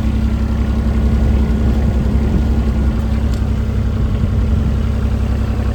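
Kubota tracked machine's diesel engine running steadily at idle, while the track is pushed down to force grease out of the track tensioner and slacken the track.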